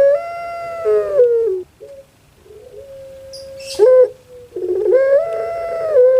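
Puter pelung dove (Streptopelia risoria) giving two long drawn-out calls a few seconds apart, each a held note that wavers and drops at the end, with a short note between them.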